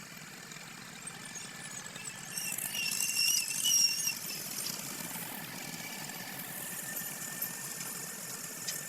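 Tractor engine running steadily. A high-pitched tone rises over it for about two seconds in the middle and is the loudest part.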